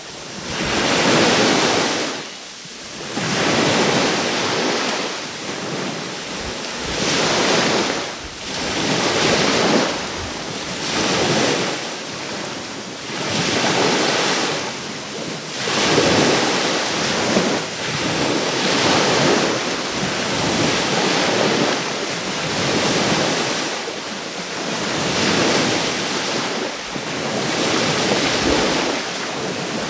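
Small Caribbean Sea waves breaking and washing up on the shore, the surf rising and falling in irregular surges every second or two.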